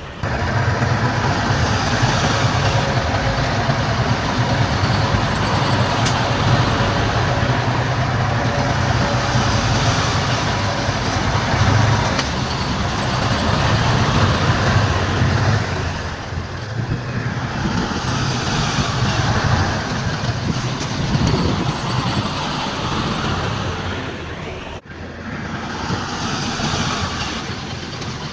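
Heavy diesel construction machinery running steadily with a deep engine rumble, with a brief break near the end.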